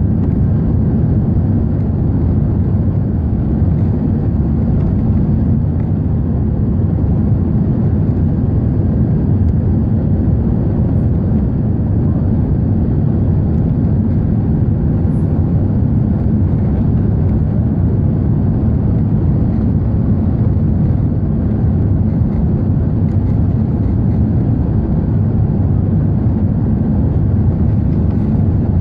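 Airbus A380 airliner in its take-off climb, heard as a steady, loud, low engine and air noise, even throughout with no change in pitch.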